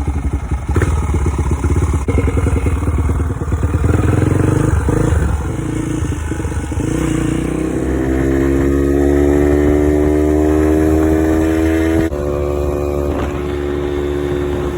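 Dirt bike engine running under the rider, rough and pulsing for the first few seconds, then pulling with a slowly rising pitch as the bike gathers speed. There is a brief break about twelve seconds in, after which the engine holds a steady pitch.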